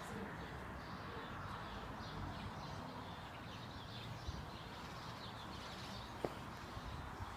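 Outdoor ambience: a steady low background hum with faint bird chirps scattered throughout, and a single small tick about six seconds in.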